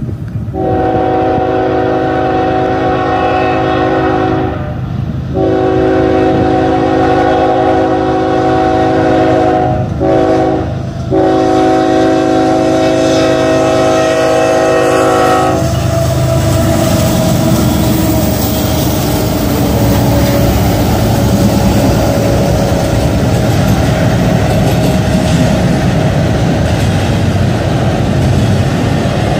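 Kansas City Southern locomotive's multi-chime horn sounding the long-long-short-long grade-crossing signal. The horn stops about halfway through, and the train carries on rumbling past with wheels clattering on the rails.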